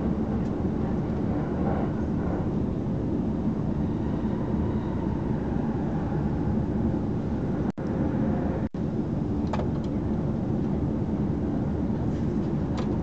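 Steady running rumble of an electric train at speed, heard from inside the passenger car, with a few faint clicks near the end. The sound cuts out for an instant twice.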